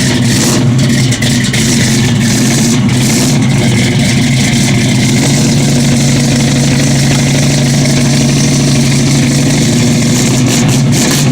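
Car engine idling, loud and steady, with an even low hum that holds its pitch throughout.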